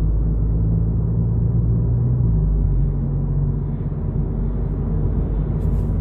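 2022 Volkswagen Polo GTI's turbocharged four-cylinder engine and tyre noise heard from inside the cabin while cruising; the engine note changes about two seconds in.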